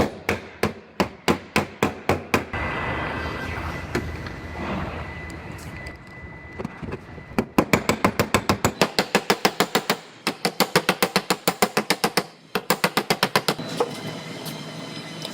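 Body hammer striking a steel door panel against a dolly in quick blows, about four to five a second, heat-shrinking stretched sheet metal. Between two runs of hammering, a few seconds of steady hiss from a small torch heating the high spot.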